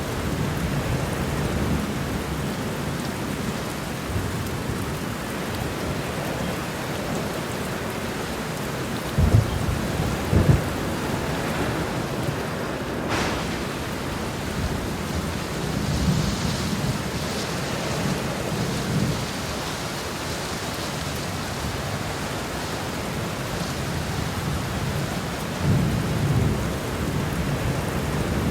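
Heavy rain falling steadily, with thunder rumbling low several times. Two sharper thunder claps come about nine and ten seconds in.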